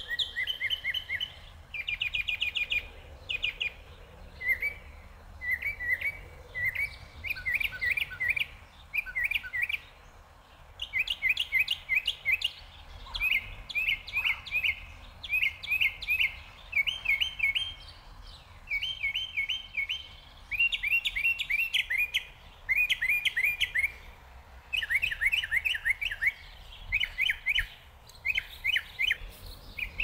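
Songbirds singing: short phrases of quick, repeated down-slurred chirps, one phrase after another with brief pauses.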